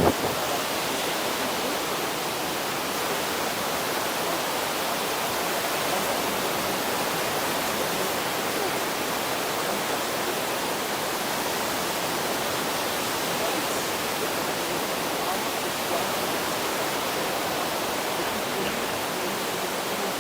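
Steady rushing noise of the sea on a beach, even throughout with no single wave breaks standing out.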